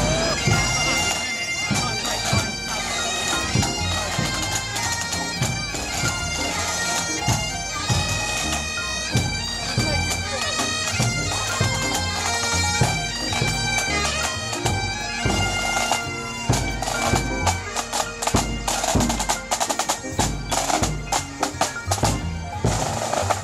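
Pipe band playing as it marches: bagpipes sounding a melody over their steady drone, with drums beating underneath.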